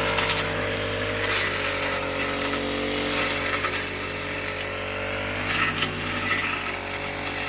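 Honda GX35 brush cutter's 35.8 cc four-stroke engine running at high speed under load, its blade cutting through tall stalks of dhaincha and pearl millet with repeated swells of rustling, crackling cutting noise. The engine note dips slightly about a second in as the blade bites.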